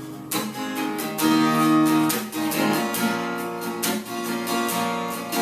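Acoustic guitar strummed in a steady rhythm of chords, the introduction to a children's song before the singing starts.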